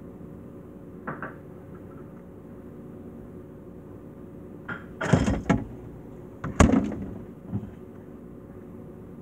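Steady refrigerator hum, heard from inside the fridge, broken by a light knock about a second in and then two loud thuds a second and a half apart, with a smaller knock after them.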